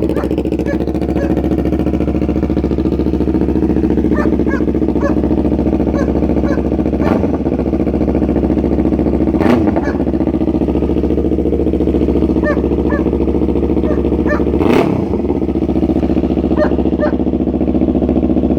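Yamaha R3's parallel-twin engine idling steadily through an aftermarket exhaust, with three short throttle blips that rise and drop straight back to idle.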